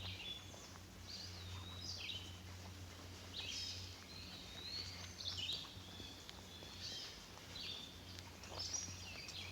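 Songbird singing faint, short warbling phrases, one after another about once a second.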